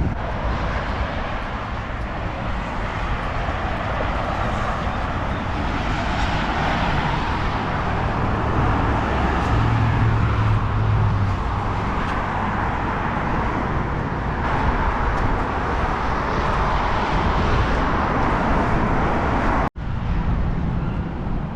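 MG Midget driving: a steady engine and road-noise rumble, with the engine note rising briefly about halfway through. The sound cuts out for an instant near the end.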